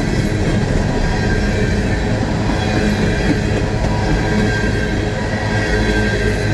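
Empty steel coal hopper cars rolling past at about 20–25 mph, their wheels rumbling on the rails with a steady squeal from the curves.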